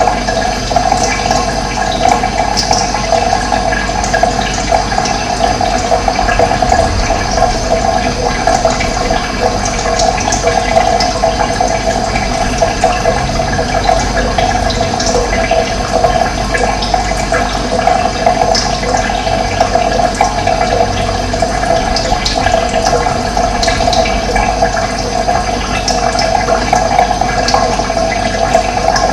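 Steady rush of running water, with brief high bird chirps scattered throughout.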